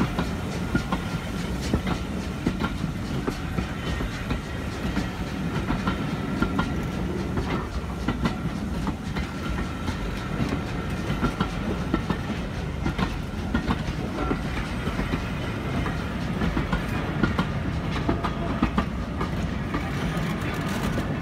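Heritage railway passenger coaches rolling past close by: a steady rumble with the rhythmic clickety-clack of their wheels over the rail joints. A faint high steady tone runs underneath.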